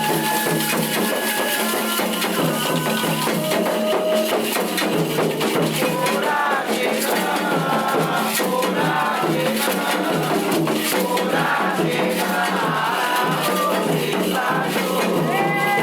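Candomblé ritual song: voices singing over steady hand percussion with rattling shakers.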